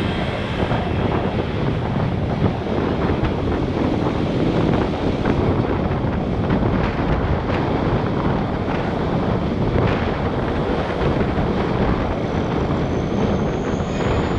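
Wind buffeting the microphone of a motorcycle-mounted action camera while riding, over steady motorbike and traffic noise. A faint high whine rises in pitch near the end.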